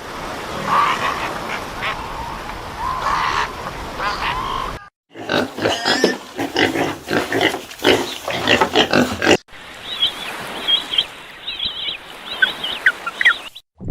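Animal calls in three separate clips: a few drawn-out calls, then a quick run of short calls starting about five seconds in, then high chirping calls in the last few seconds.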